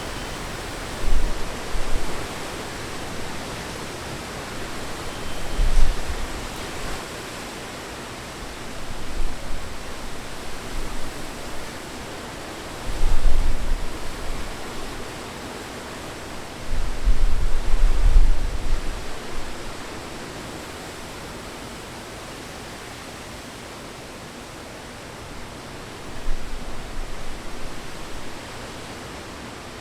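Steady hiss of heavy rain, with gusts of wind buffeting the microphone as low rumbles several times, the longest about two-thirds of the way through.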